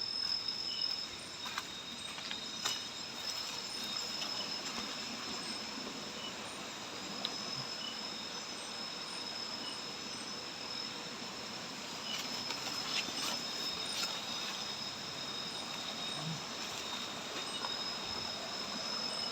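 Night insects, such as crickets, calling in a continuous high-pitched trill that weakens and comes back a few times. A few faint clicks and rustles are scattered through it.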